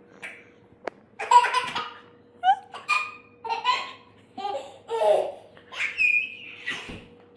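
A baby laughing and squealing in a string of short high-pitched bursts.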